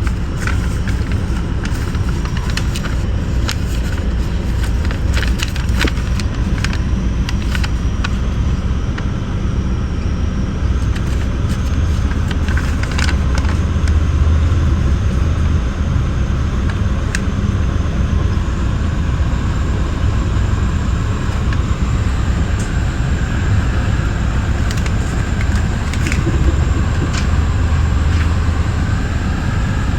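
Metra bi-level commuter coach running along the line, a steady low rumble of wheels on rail with scattered clicks and knocks, most of them in the first half, and a faint high whine in the second half.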